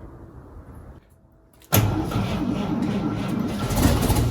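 A 1953 Chevy truck's engine is cranked by its foot-pedal starter, starting suddenly just under two seconds in. It turns over without firing because the ignition key was left off.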